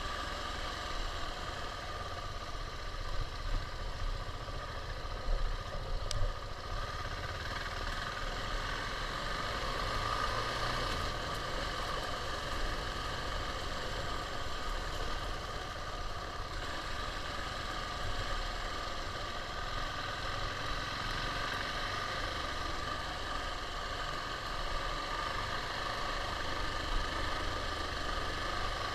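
KTM 690's single-cylinder four-stroke engine running at a steady, even pitch, with a low rumble underneath and a few brief bumps early in the stretch.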